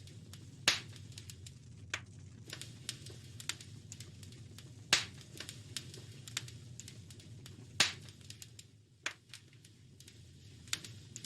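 Wood fire crackling in a fireplace: irregular pops and snaps, with three louder pops about a second in, near the middle and about three-quarters through, over a low steady rumble.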